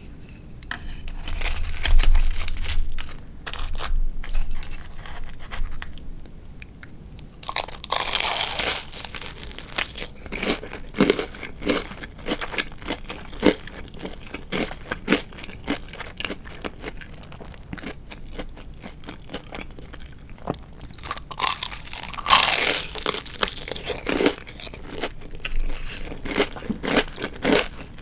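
Close-miked bites into crispy deep-fried marinated chicken (tatsuta-age), with wet, crackly chewing in between. The two loudest crunches come about eight seconds in and again about twenty-two seconds in, and a few low thuds come near the start.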